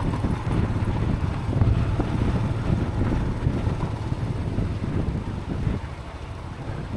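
Motorcycle riding on a rough dirt track, heard through a helmet chin-mounted camera: low wind buffeting on the microphone over the engine and bike noise, easing a little about six seconds in.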